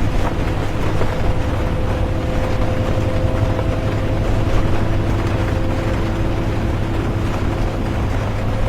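Interior of a moving bus: a steady low engine and road rumble with a faint steady whine, mixed with rain.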